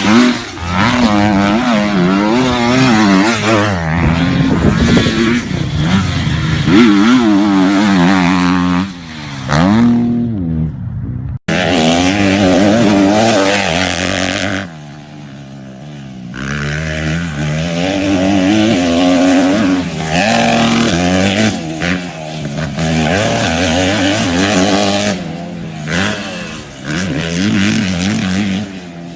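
Motocross dirt bike engines revving up and down over and over as the bikes ride. The sound cuts off and jumps to another bike about eleven seconds in.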